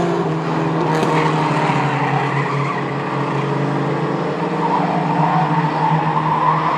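A field of Mighty Trucks, small pickup-style race trucks, running at speed around a short-track oval, their engines droning steadily. Some tyre squeal is heard as trucks slide through the turns.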